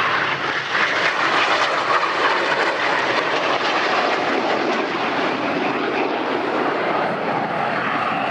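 BAE Hawk T1 jets' Rolls-Royce Adour turbofans in a display pass: a steady, loud rushing jet noise with a faint whine drifting in pitch.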